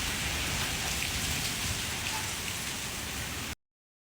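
Steady heavy rain pouring in a storm, which cuts off suddenly about three and a half seconds in.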